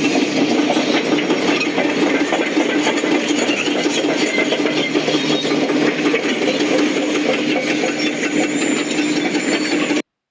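Bulldozer working: its diesel engine runs with a steady hum under a dense, rapid metallic clatter, then stops abruptly near the end.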